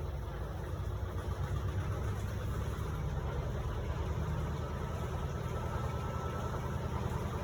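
Electrolux LPE16 washing machine running through a wash of heavy microfibre blankets: a steady low motor hum and rumble that grows slightly louder, with a faint thin whine about halfway through.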